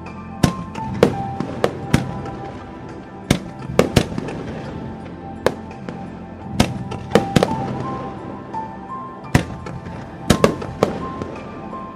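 Fireworks shells bursting in the sky, a dozen or more sharp bangs at irregular intervals, some in quick clusters, over music playing steadily underneath.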